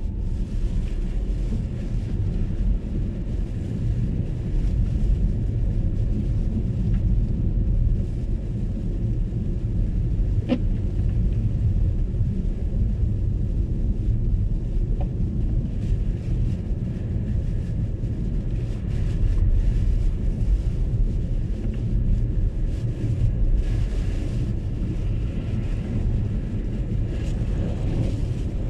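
Steady low rumble of road and tyre noise from an MG ZS EV electric car driving on a snowy road, with no engine note. A single short click about ten seconds in.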